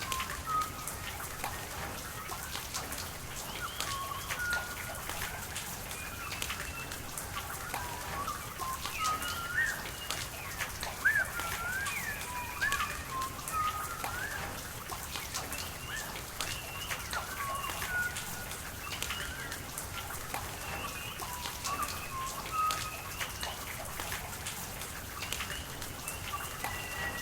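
Rain pattering with sharp drip ticks over a steady wash of water, while several birds call throughout with short chirps and whistles.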